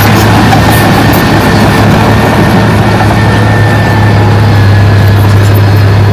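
Diesel engine of heavy earthmoving machinery running steadily and loud, with a constant deep hum.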